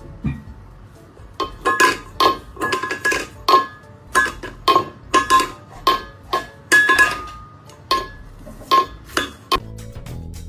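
A quick run of sharp clinks, like dishes or cutlery being knocked together, about two to three a second, each ringing briefly. They stop near the end.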